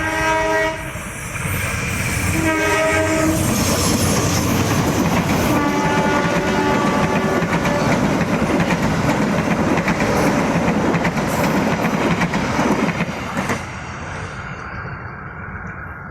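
Passenger train's diesel locomotive horn sounding, one blast ending about half a second in, another about three seconds in and a fainter one around six seconds. The train then passes close with wheels clattering over the rail joints, falling away sharply near the end.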